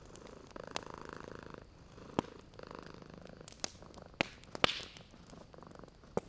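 Domestic cat purring in slow, even breath cycles, with wood fire crackling: several sharp pops, the loudest a little past the middle.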